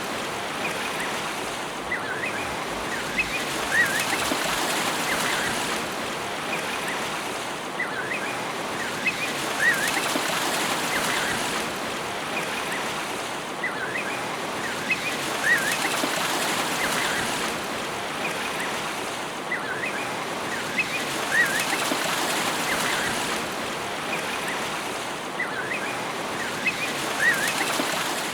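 Steady rush of water, like surf or a stream, with small clusters of short bird chirps recurring about every six seconds.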